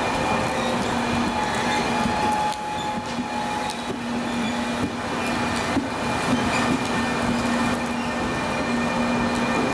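A train running on the rails: a steady rolling noise with a few steady humming tones over it.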